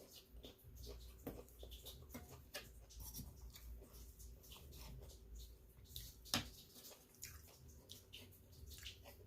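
Close-up eating sounds: soft chewing and wet mouth clicks, irregular and quiet, with one sharper click about six seconds in.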